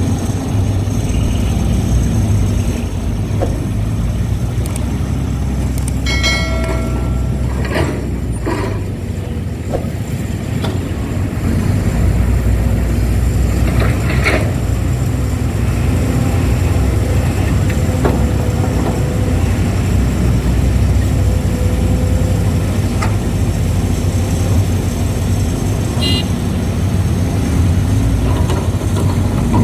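Heavy diesel machinery running steadily with a low rumble: a Kobelco excavator working as it loads soil into a Hino Ranger truck. There are a few knocks along the way and a brief high tone about six seconds in.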